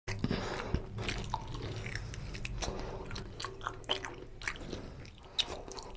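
Close-miked chewing of fatty mutton in oily curry: wet, sticky mouth sounds with many short clicks and smacks.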